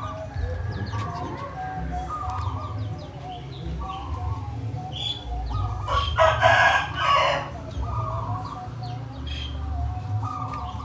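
Chickens clucking in short repeated calls, with one louder rooster crow lasting just over a second about six seconds in. Faint high chirps of small birds run underneath.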